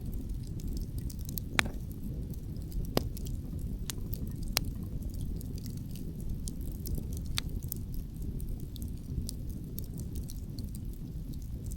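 Wood fire crackling, with scattered sharp pops, the strongest about one and a half, three and four and a half seconds in, over a steady low rumble.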